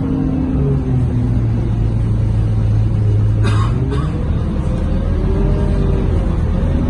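Scania K230UB bus's diesel engine and driveline running under way, heard from inside the bus: a steady low hum for the first half, then whining tones that rise and fall. A short hiss about halfway through.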